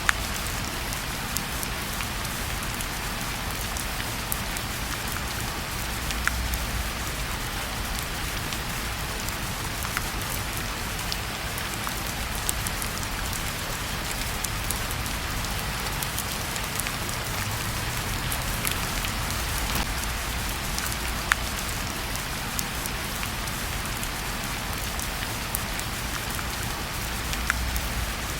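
Steady rain falling on a surface, mixed with a fireplace fire, with a low rumble beneath and sharp crackles popping out here and there.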